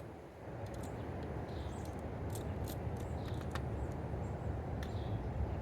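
Short, high bird chirps and a few sharp clicks at a feeder, over a low, steady rumble that swells about half a second in.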